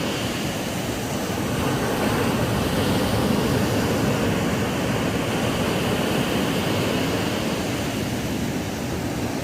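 Ocean surf washing onto a sandy beach: a steady rush of waves that swells a little a few seconds in and eases off again.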